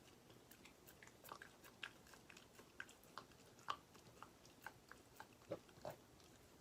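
Faint chewing by a pet: irregular small crunches and clicks, several a second, as it bites and chews something.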